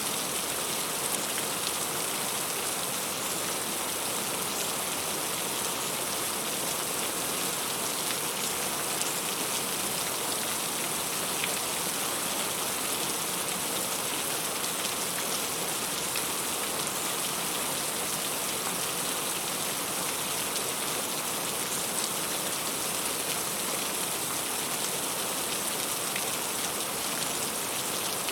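Heavy rain falling steadily, a dense even hiss scattered with individual drop ticks.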